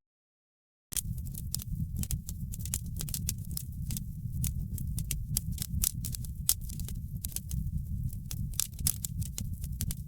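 Wood fire crackling: a steady low rumble of burning with many irregular sharp pops and crackles. The sound drops out completely for about the first second, then resumes.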